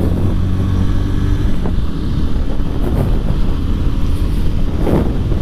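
Bajaj Pulsar 150's single-cylinder engine running under way on the ride. Its steady note gives way to a rougher rumble about a second and a half in.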